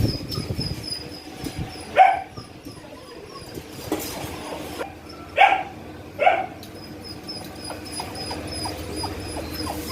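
Small dog yipping: three short, sharp barks, at about two, five and a half and six seconds in, with a high chirp repeating about four times a second behind them.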